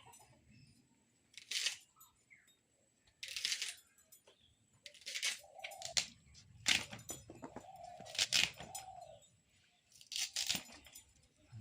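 A knife cutting and scraping a rohu fish in sharp, separate strokes, one every second or two. A faint animal call is heard near the middle.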